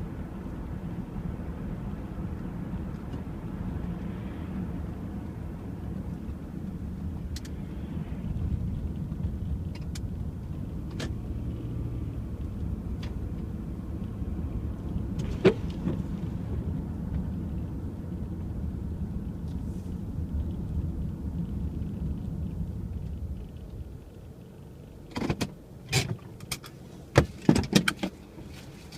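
Steady low rumble of a car running, which falls away about five seconds before the end. It is followed by a quick cluster of sharp clicks and knocks.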